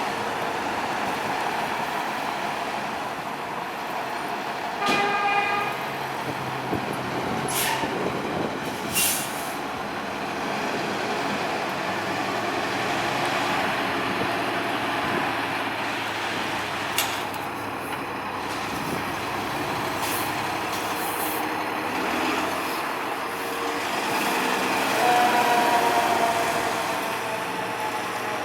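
Fire engine on an emergency run, a 2020 Spartan ER Metrostar pumper: steady engine and road noise, with a short horn blast about five seconds in. Near the end a siren tone falls slowly in pitch.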